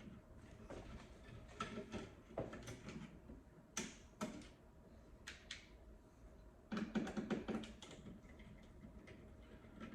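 Irregular small clicks, taps and rustles of hands working at thermostat wire terminals, with a busier burst of handling about seven seconds in.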